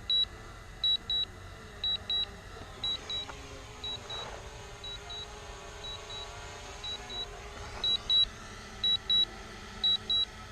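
Drone remote controller beeping: short, high double beeps, about one pair a second, repeating steadily. It is a low-battery alert, with the aircraft battery down around 15%.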